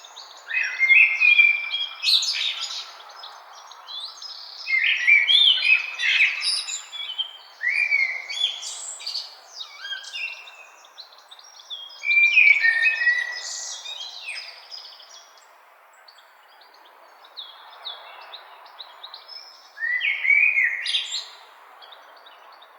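Several songbirds singing in a woodland chorus: short whistled and chirping phrases in bouts of a second or two, over a soft steady background hiss.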